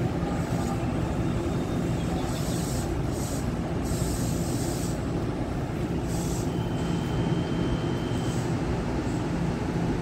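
Taiwan Railway train running at the station: a steady low rumble with a hum, broken by short bursts of high hiss. A thin high whine, likely wheel squeal, sounds for about two seconds from six and a half seconds in.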